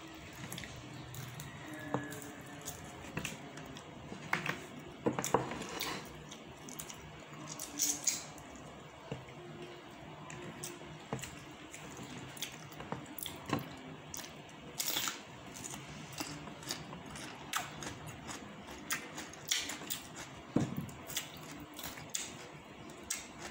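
A person eating close to the microphone: wet chewing and lip smacks, with irregular small clicks and ticks from the mouth and fingers.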